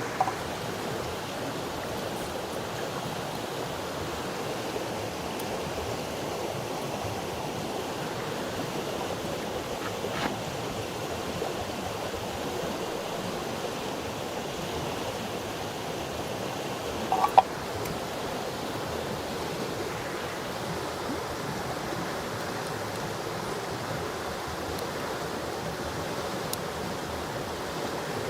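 Steady rush of running water, like a rainforest stream, with a few brief sharp clicks or knocks, the loudest about 17 seconds in.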